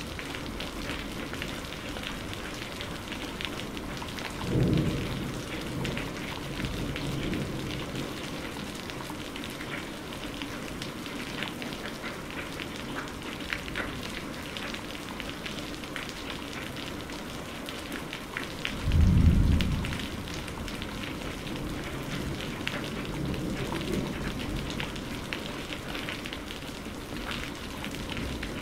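Steady rain with drops pattering on a surface, broken by two short low rumbles of thunder, one about four seconds in and a louder one near the middle.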